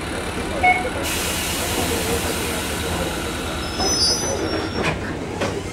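Ichibata Electric Railway 2100 series electric train running, heard from inside the carriage: a steady low rumble of wheels and running gear, with a hiss coming in about a second in and brief high wheel squeals around four seconds in.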